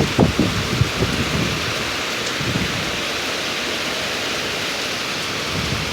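Heavy rain falling steadily, an even hiss throughout, with some low rumbling thumps in the first second and a half.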